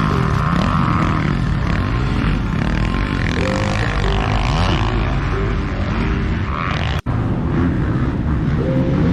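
Several dirt bike engines revving up and down at once. The sound cuts out abruptly for an instant about seven seconds in.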